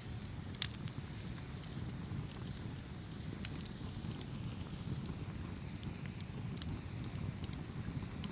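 Campfire burning, with a steady low rumble of flames and irregular sharp crackles and pops of burning wood; one louder pop about half a second in.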